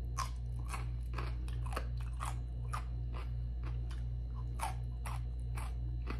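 Chewing a slice of yellow pickled radish (takuan): crisp crunches about twice a second, over a steady low hum.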